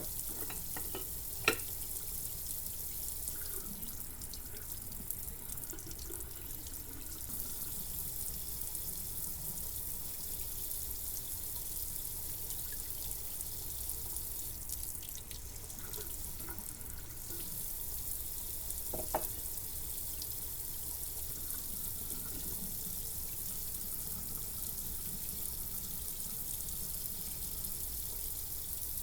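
Water running steadily, a continuous hiss, with a sharp clack about a second and a half in and a lighter knock about two-thirds of the way through.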